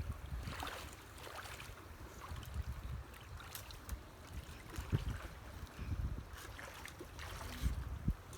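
Creek water splashing and sloshing in irregular spurts, over a gusty low rumble of wind on the microphone.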